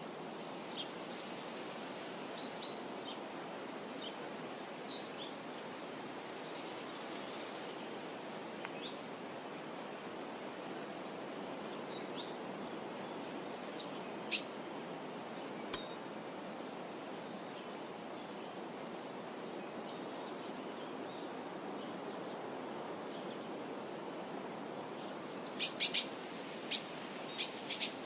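Birds chirping now and then over a steady outdoor hiss, with a quick run of sharp, louder chirps near the end.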